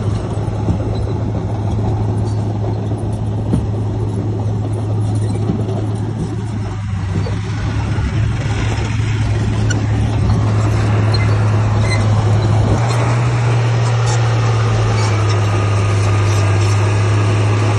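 Heavy diesel engine of earthmoving machinery running steadily, picking up speed slightly and growing a little louder about 13 seconds in.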